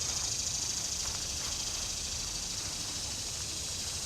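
Steady high-pitched chorus of insects, crickets, running without a break.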